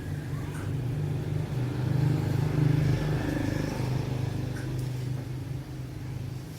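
An engine running with a steady low hum, growing louder about two seconds in and then fading away.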